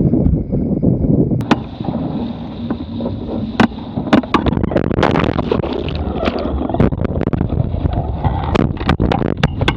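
Wind buffeting the microphone over water rushing past a Musto Skiff dinghy's hull at speed, with many sharp slaps and knocks.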